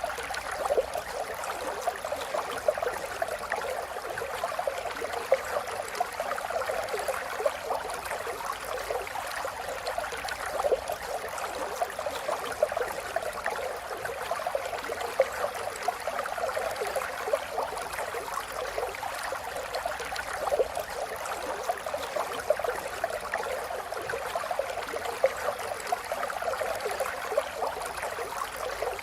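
River water flowing steadily over stones, with many small splashes and gurgles.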